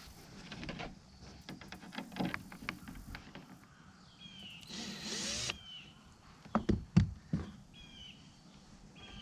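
Clicks and knocks of plastic skylight parts being handled and fitted, with a short burst of a cordless drill running about five seconds in, then two sharp knocks. Birds chirp briefly several times in the background.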